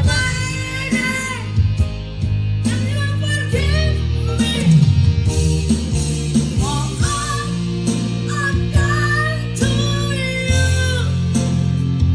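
A singer holding long, very high notes with vibrato over guitar-backed music.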